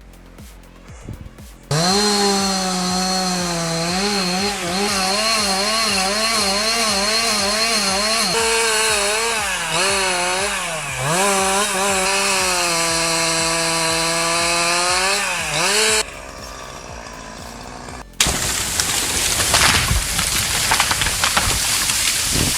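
Two-stroke chainsaw running at high revs, its pitch wavering up and down as the chain bites and dropping briefly three times as the throttle eases. After a short lull a rough rushing noise with crackles takes over near the end.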